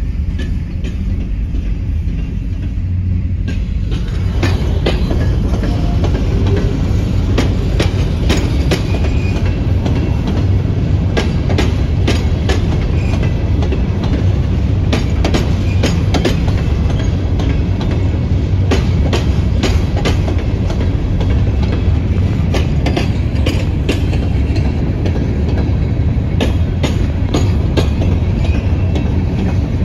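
Empty Herzog hopper cars of a freight train rolling past, a steady low rumble with the wheels clicking over rail joints. The sound grows louder and brighter about four seconds in.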